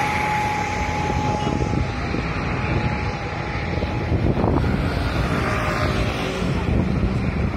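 Jet airliner's engines receding after passing, a steady whine dying away over the first two seconds, with strong wind buffeting the microphone.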